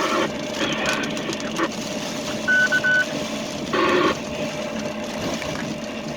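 A short electronic beep at one steady pitch, broken into three quick pieces about two and a half seconds in, over a steady noisy background with a faint hum.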